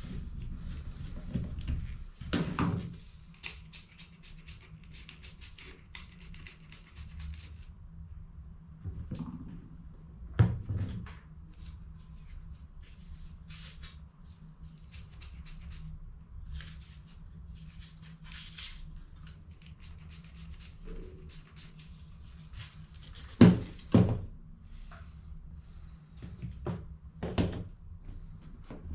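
Plastic clicks, rattles and sharp knocks from toner cartridge parts being handled and set down, the loudest knocks about ten seconds in and twice in quick succession near the end, over a steady low hum.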